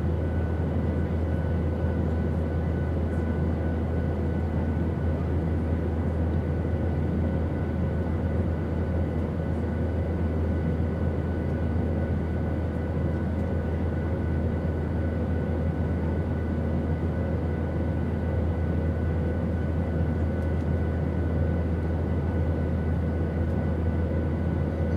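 Airplane in flight: a steady, unchanging drone with a strong deep rumble underneath and a few faint steady hums above it.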